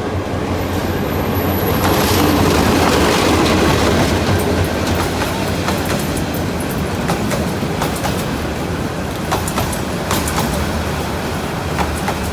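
A train running on rails with a steady rumble. A thin, high wheel squeal sounds from about half a second to two seconds in, and the clicks of wheels over rail joints follow later.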